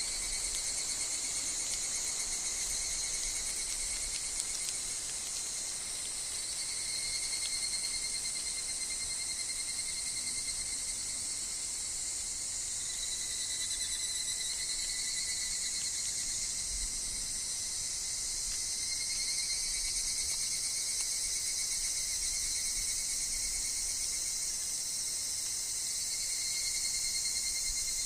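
Insect chorus of evening cicadas (higurashi) calling in repeated swells that come and go every few seconds, over a steady high-pitched insect hiss.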